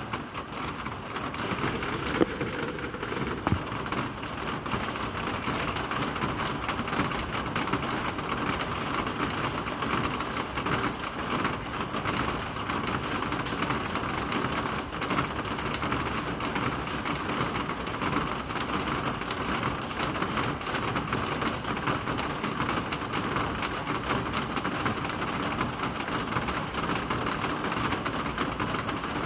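Steady rain falling, a dense even patter of drops on surfaces, with two sharper taps a couple of seconds in.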